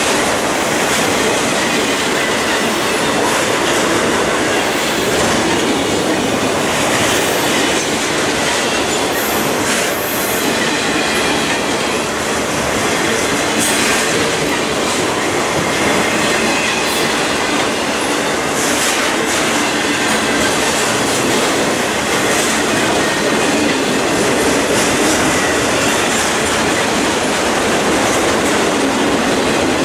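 Autorack freight cars of a Norfolk Southern train rolling past close by: steady rolling noise of steel wheels on the rails, with faint wheel squeal here and there and a few sharp clicks.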